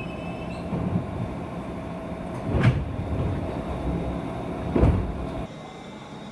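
JR West 201 series electric train heard from inside a motor car, rolling slowly with two heavy knocks over rail joints about two seconds apart. A fading wheel squeal dies away just after the start. The running rumble cuts off suddenly about five and a half seconds in, leaving a quieter steady hum.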